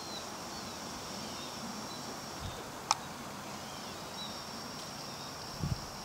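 Faint outdoor ambience: small bird chirps over a steady high-pitched whine, with one sharp click about three seconds in.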